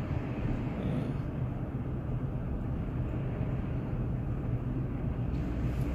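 Steady low hum of a car's engine and road noise heard inside the cabin while driving.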